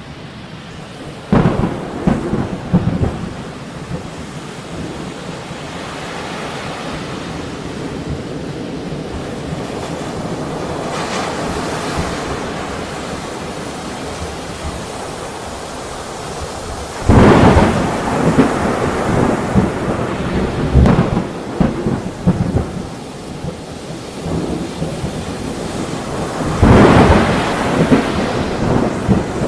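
Steady rain with thunder: three claps, each a sudden crack rolling into rumble for a few seconds, about a second in, around the middle, and near the end, the last two the loudest.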